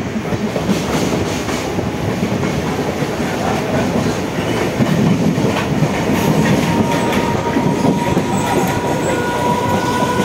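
Mumbai suburban electric local trains running at speed side by side, heard from inside a compartment: a steady rumble with wheels clattering over rail joints. A faint steady whine comes in about six seconds in.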